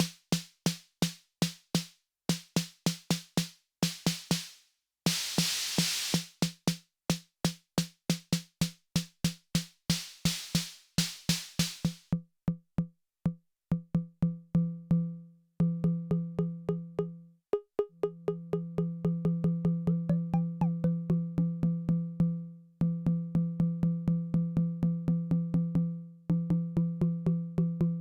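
Elektron Syntakt's analog snare drum machine (AR SD Classic) playing a fast sequenced pattern of snare hits. At first the hits are bright and noisy, with one long noisy wash a few seconds in. About halfway through the noise fades out and the hits become pitched, ringing drum tones that sustain longer.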